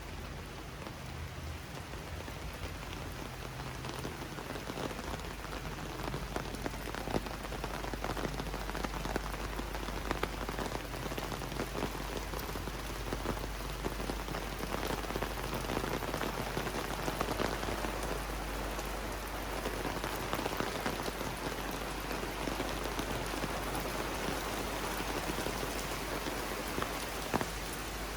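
Steady rain falling, a continuous hiss scattered with the ticks of individual drops striking close by.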